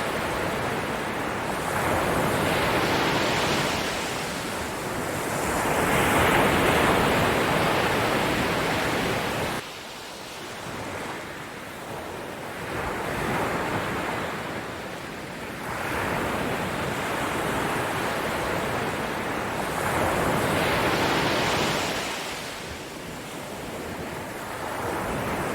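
Ocean surf: waves washing in and drawing back, the hiss swelling and fading every few seconds. One swell cuts off abruptly about ten seconds in.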